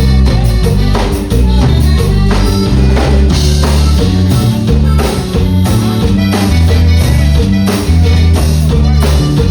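Tejano band playing live and loud: drum kit, bass and guitar with a steady beat.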